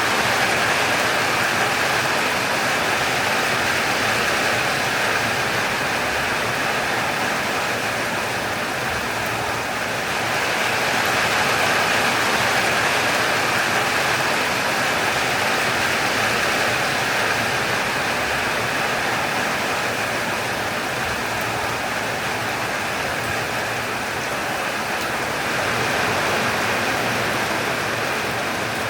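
Heavy downpour of a summer storm: a steady, loud rush of falling rain or hail, swelling slightly about ten seconds in and again near the end.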